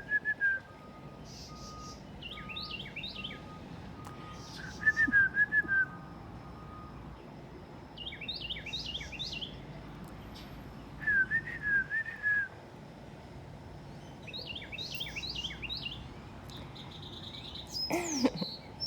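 A person whistling a short warbling phrase and a bird answering with a quick run of higher, rising chirps, the two trading phrases back and forth three times.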